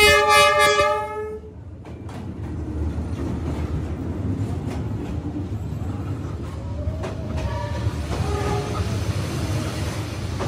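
A passenger train sounds its horn in a loud blast that stops about a second and a half in. The train then rumbles past with wheels clacking on the rails.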